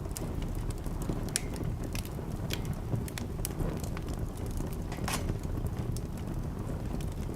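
Wood fire burning in a fireplace: irregular sharp crackles and pops over a steady low rumble of the flames, with one louder pop about five seconds in.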